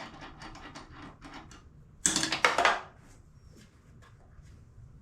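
Metal tools and suspension parts clinking and rattling as they are handled, with a louder, short clatter about two seconds in.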